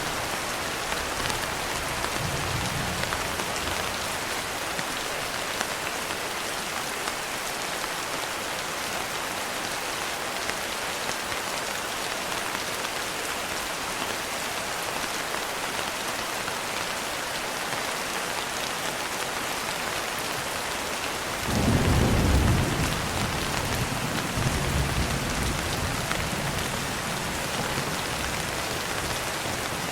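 Steady rain pattering on a surface. About two-thirds of the way through, a loud rumble of thunder comes in and rolls on more faintly for several seconds.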